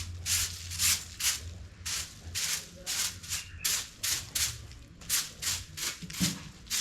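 Rhythmic scrubbing strokes during cleaning, scratchy and repeated about two to three times a second.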